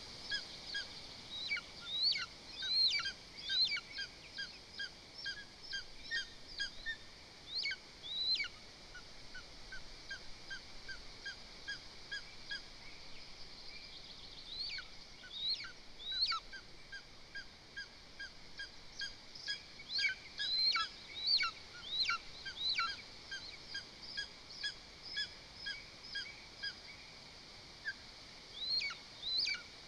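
Birds calling repeatedly: fast series of short, even chirps with bursts of sharper, upward-hooked calls, quieter for a few seconds before rising again near the end.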